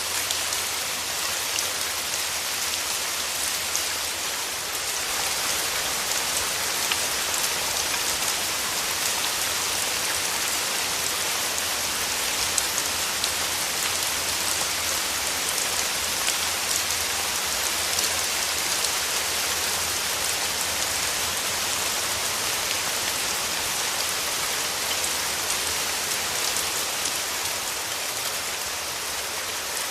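Steady rain falling on a surface, a constant even hiss sprinkled with many small drop ticks.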